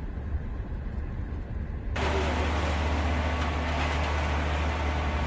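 Steady rushing noise of vehicles with a low engine hum, which becomes suddenly louder about two seconds in.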